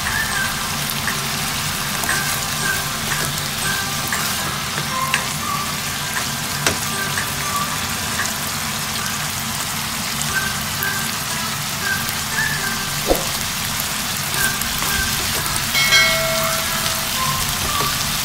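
Ground beef, diced potatoes and mixed vegetables sizzling and frying in a wok: a steady crackling hiss with an occasional sharp click.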